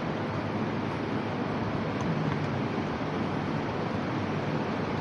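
Steady, even background noise on a railway station platform beside a waiting high-speed train, with no distinct events.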